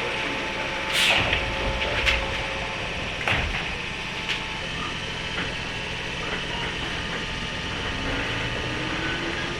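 Interior sound of a JNR 103 series motor car with MT55 traction motors: a steady hum with a few sharp knocks and clatters in the first half. Near the end a faint whine rises in pitch.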